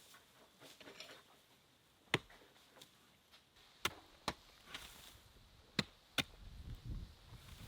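Knife chopping on a wooden board: about five sharp, single strikes at uneven intervals.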